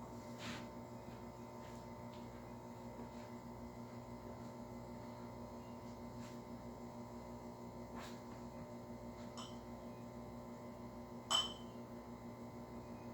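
Steady electrical hum with a few faint clicks, and one sharper click about eleven seconds in.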